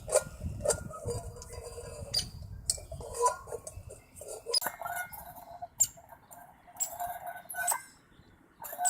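Birds calling in short, pitched notes mixed with sharp clicks. The calls are busiest over the first half and thin out near the end.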